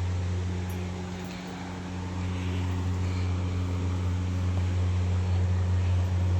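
A steady low mechanical hum, like a motor or fan running, dipping slightly about a second in and then holding steady.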